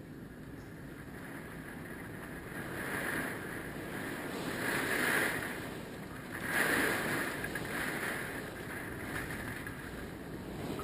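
Hurricane Michael's winds rushing, swelling into stronger gusts four times and easing between them, with wind buffeting the microphone.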